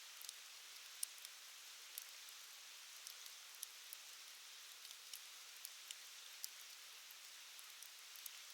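Wood fire crackling: a soft, steady hiss with sharp, irregular pops, a few each second, the loudest about a second in.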